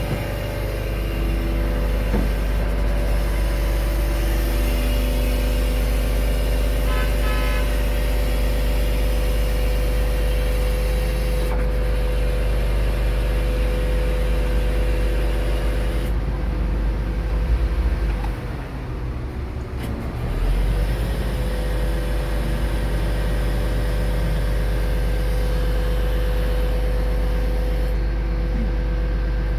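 Scania R500 truck with a Palfinger loader crane, its engine and the crane's hydraulics running steadily: a deep drone under a steady whine. Roughly two-thirds of the way through, the note dips and wavers briefly, then settles back to the same steady level.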